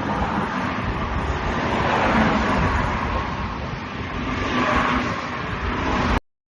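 Steady rumbling vehicle noise that cuts off suddenly about six seconds in.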